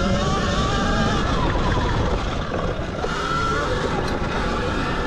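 Zero XB electric dirt bike being ridden on a sandy trail: a steady rushing rumble with a motor whine that rises and falls in pitch as the throttle changes.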